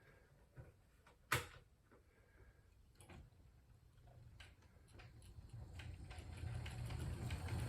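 Bachmann 36-ton Shay model locomotive running on track, heard faintly at first with scattered sharp clicks, one louder about a second in. A low hum from its motor and diecast power trucks grows steadily louder from about four seconds in as it approaches.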